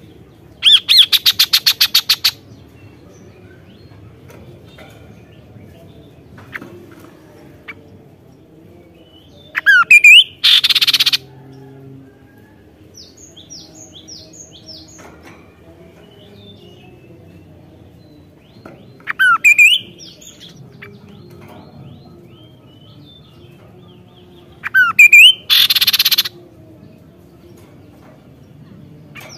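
Kaso-kaso bird singing hard: loud harsh rattling bursts about every eight seconds, four in all, most of them opened by a quick swooping whistle, with soft high chirps in between.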